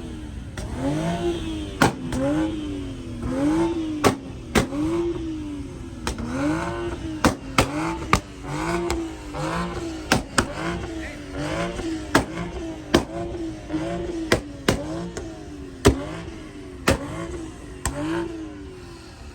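An engine revved up and down over and over, about once a second, with sharp cracks scattered through the revving.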